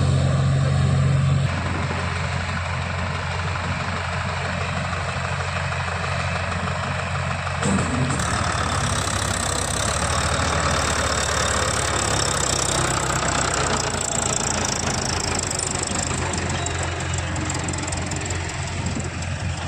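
Diesel engine of farm machinery running steadily, with the sound changing abruptly about a second and a half in and again about eight seconds in.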